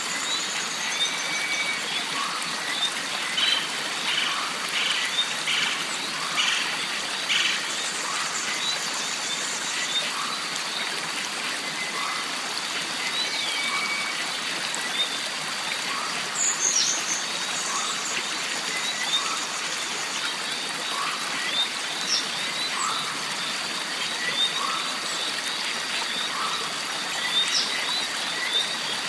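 Jungle stream running steadily, with birds calling over it and a steady high buzz. A short call repeats about every second or so, and higher chirps and trills come now and then.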